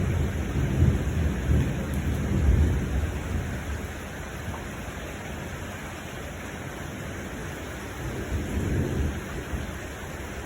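Steady rain with rolling thunder: a low rumble, strongest in the first few seconds, dies away and swells again briefly near the end.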